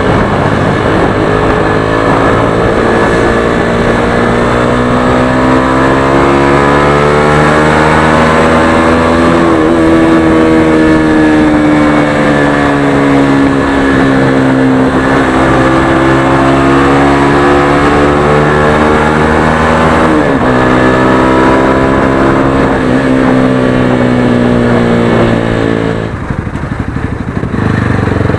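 Motorstar Xplorer Z200S single-cylinder four-stroke motorcycle engine and exhaust under way, its pitch rising and falling with the throttle over several-second stretches. A little before the end the sound dips as it eases off, then picks up again.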